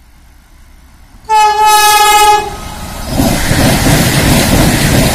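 Vande Bharat Express trainset sounding one horn blast of about a second, then rushing past close at speed with loud wheel and air noise.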